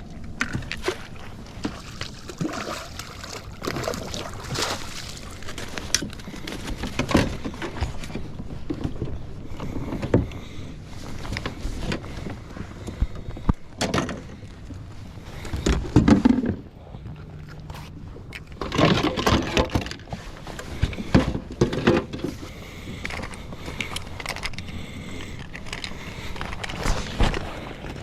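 Noises from a fishing kayak on the water: irregular knocks, scrapes and splashing, with some louder uneven stretches, over a steady rumbling background.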